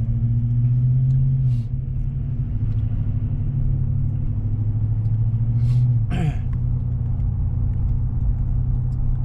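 Steady low engine and road drone of a Chevy Silverado pickup, heard from inside the cab while driving, with the pitch of the drone shifting slightly about a second and a half in and again near six seconds.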